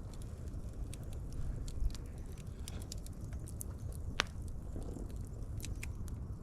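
Fire crackling, with irregular sharp pops and snaps over a steady low rumble; one pop about four seconds in is much louder than the rest.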